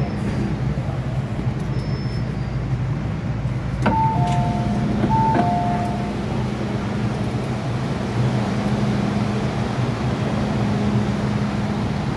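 MTR M-Train electric multiple unit running, a steady rumble with a low hum from the cabin. About four seconds in, a descending two-note electronic chime sounds twice, about a second apart.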